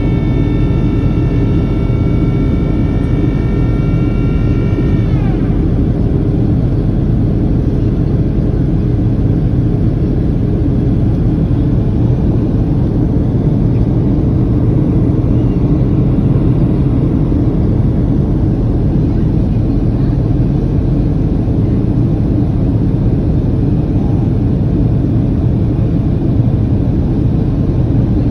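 Boeing 737 cabin noise on landing approach: a steady, loud rumble of airflow and engines. A whine of several tones, from the flap drive moving the high-lift devices, slides down in pitch and stops about five seconds in.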